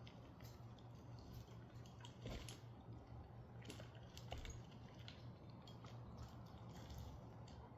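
Near silence: faint, scattered ticks and crackles over a low steady hum.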